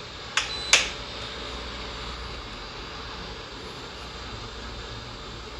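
A Keystone evaporative air cooler's fan blowing steadily. Just after the start come two sharp clicks from its control panel, the first followed by a short beep, as the mode button is pressed.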